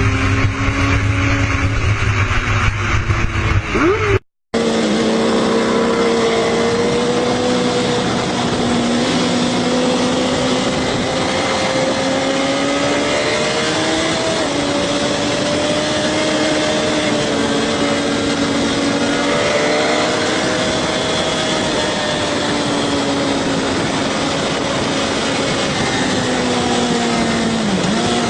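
Motorcycle engine running at a steady, slowly wavering pitch over a steady rushing noise, broken by a brief cut to silence about four seconds in.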